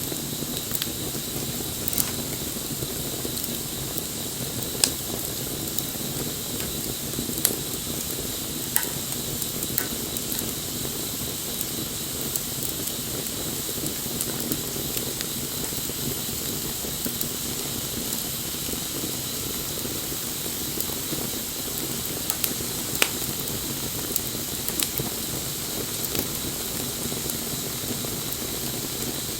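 Wood fire burning with a steady hiss and scattered sharp crackles and pops every few seconds.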